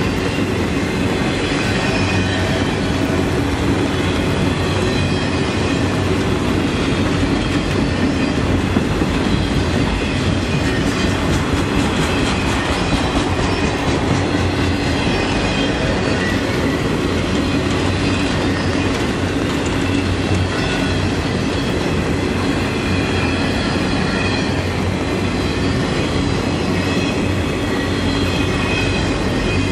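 A long freight train of autorack cars rolling past at trackside: a steady rumble and clatter of steel wheels over the rails, with thin high wheel squeals coming and going.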